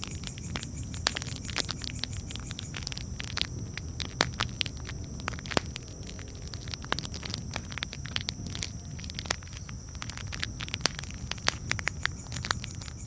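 Campfire crackling: irregular sharp pops and snaps, several a second at times, over a steady low rumble of burning wood.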